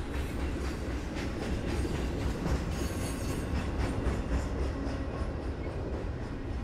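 Freight train of double-stack intermodal container cars rolling past: a steady low rumble of steel wheels on rail, with repeated clicks as the wheels cross the track joints.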